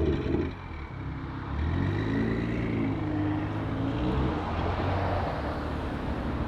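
BMW 440i's turbocharged straight-six through a catless downpipe and M Performance exhaust, revs dropping off as the sound opens, then running steadily at low revs with a slight rise about two seconds in.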